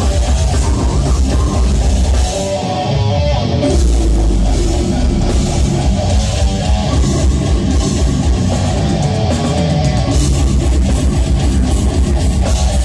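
Live heavy metal band playing loud, with distorted electric guitars and a drum kit. The low end drops out briefly about two seconds in, then the full band comes back in.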